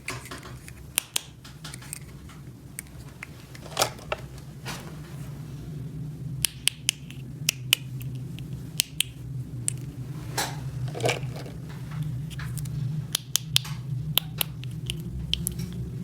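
Small plastic toy pieces being handled: irregular sharp clicks and taps, with a couple of brief rustling scrapes, over a steady low hum.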